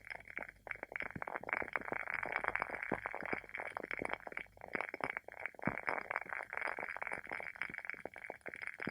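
WoodWick candle's wooden wick burning with a rapid, irregular crackle like a small bonfire, over a steady hiss.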